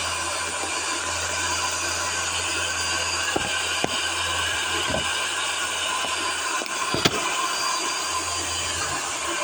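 Vacuum cleaner running steadily, a motor whine over a rush of air, with a few sharp clicks or knocks, the loudest about seven seconds in.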